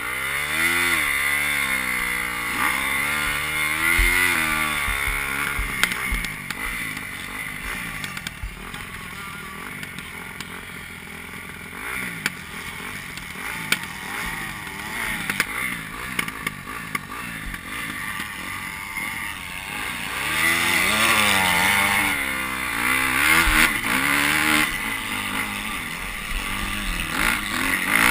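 Motocross bike engines revving up and down as riders accelerate and shift, loudest in the first few seconds and again from about twenty seconds in, with a few sharp knocks.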